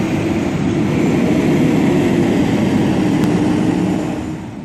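A heavy diesel engine running steadily, a low rumble with a held hum, fading out near the end.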